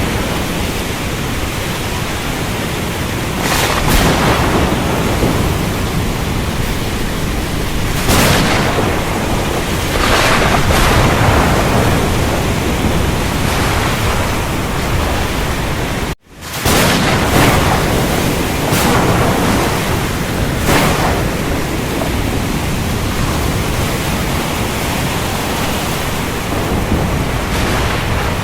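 Thunderstorm: heavy rain falling steadily, with several sharp thunderclaps. The sound cuts out for a split second about halfway through.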